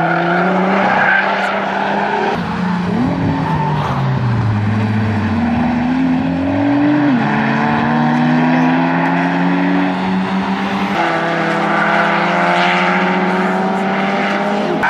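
Car engines accelerating hard on a race circuit, several rising engine notes climbing through the revs, with a sudden drop in pitch about seven seconds in as a car shifts or lifts off.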